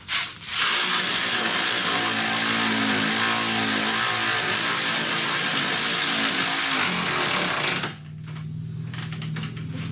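A power tool runs hard for about seven seconds, driving the lower control arm bolt into the repaired frame nut, then stops suddenly. A quieter, steady low hum continues after it.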